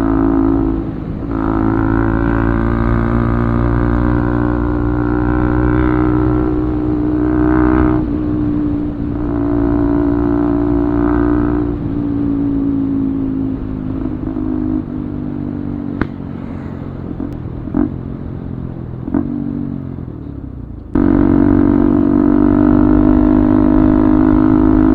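Single-cylinder Bajaj Pulsar 200 engine running through an Akrapovic full-system exhaust while riding, a steady exhaust note whose pitch eases slightly. About halfway through it drops quieter for several seconds with a few sharp clicks, then comes back loud and steady suddenly, near the end.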